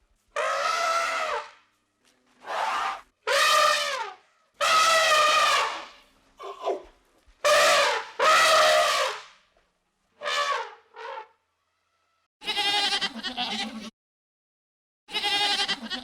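A run of bleating calls from sheep or goats: about a dozen separate calls of under two seconds each, with short silent gaps between them. The later calls are lower and wavering.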